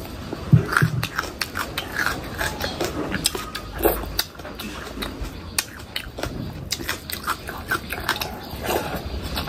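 Close-miked eating sounds: a person biting and chewing food, with many irregular wet clicks and mouth smacks.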